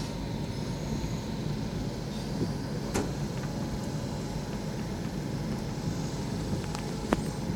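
Train running, a steady low rumble with two sharp clicks, about three seconds in and again near the end.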